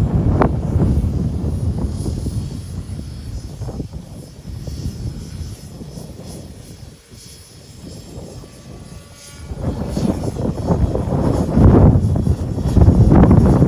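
Radio-controlled helicopter flying in strong, gusty wind: its rotor and engine sound is mixed with heavy wind rumble on the microphone. The sound fades well down through the middle and comes back loud after about ten seconds.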